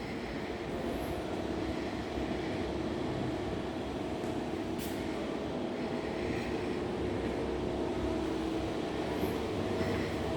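Steady background rumble of vehicle traffic, with a single sharp click about five seconds in.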